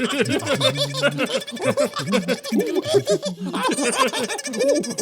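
A rapid run of short wordless vocal sounds, each quickly rising and falling in pitch, with a steady hum underneath.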